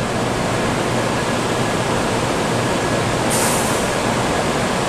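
Shinkansen N700-series bullet train running alongside the platform, a steady loud rushing noise of wheels and air, with a brief high hiss about three seconds in.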